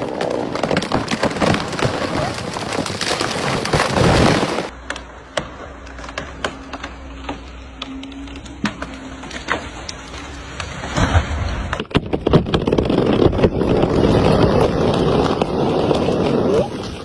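Chainsaw cutting wood at full throttle, then dropping to a quieter, lower steady running with scattered sharp cracks for several seconds, then cutting again from about eleven seconds in.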